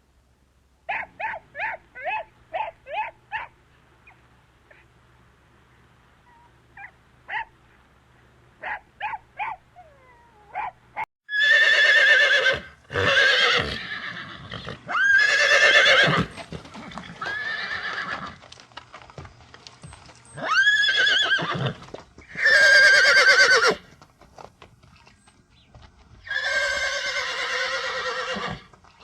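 Horses whinnying. First comes a quick run of short calls, then a few scattered ones. From about a third of the way in come loud, drawn-out whinnies with a quavering pitch, one after another, each a second or two long.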